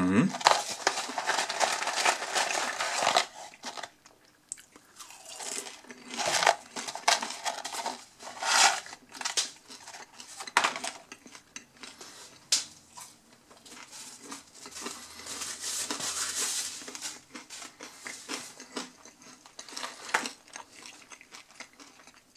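Crunchy chewing and biting of curly fries, mixed with the rustling and handling of the paper fry carton and wrappers. A longer rustle in the first three seconds, then scattered short crackles and crunches.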